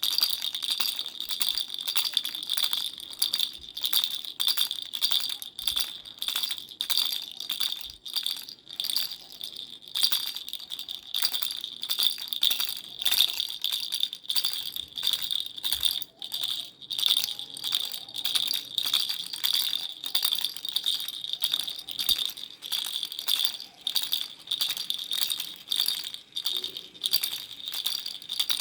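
Baby rattle shaken over and over in quick, even strokes, a few a second, with a steady high ringing like small bells.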